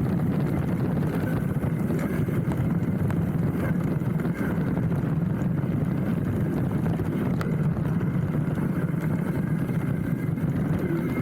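Steady low rumble of a hardtail mountain bike's tyres rolling over a dirt trail, carried through a handlebar-mounted camera, with a few light rattles and clicks from the bike.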